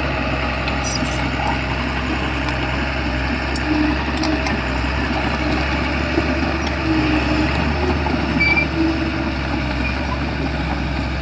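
Shantui bulldozer's diesel engine running steadily, with scattered metallic clicks and short squeaks from the machine working.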